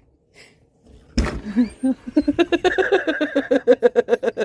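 A person laughing in fast, repeated bursts, starting suddenly about a second in.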